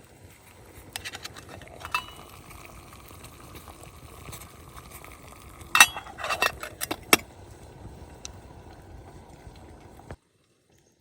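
Several light clinks and knocks over a steady background rush, loudest in a cluster of sharp clicks a little before the middle. The sound cuts off suddenly about ten seconds in.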